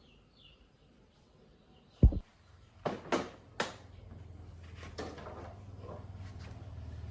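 A heavy thump, then a few sharp knocks like handled metal parts, followed by a low steady motor hum that slowly grows louder.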